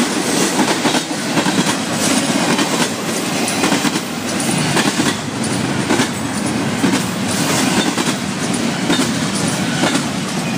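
Freight train cars rolling steadily past: a continuous rumble of wheels on rail with repeated clicks as the wheels pass over the rail.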